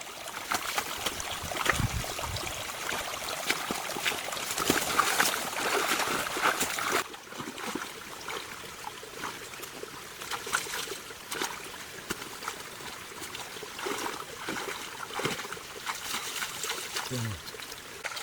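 Water trickling and splashing, with many small clicks and knocks through it. It is louder and busier for the first seven seconds or so, then settles quieter.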